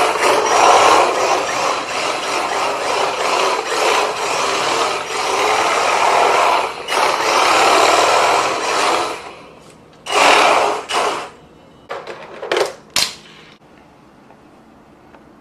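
RC drift car sliding across the floor, its electric motor running and its tyres scrubbing in one long continuous drift for about nine seconds. Then come three short bursts of throttle and sliding, and the car stops about two seconds before the end.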